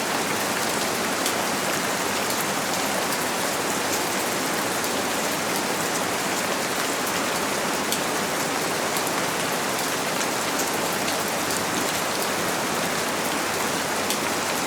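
Steady rain falling on a window, a dense even hiss sprinkled with faint drop ticks, laid out as continuous white noise for sleep.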